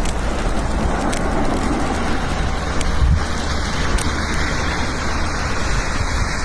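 A motor vehicle on the move: a steady rushing noise of engine and tyres.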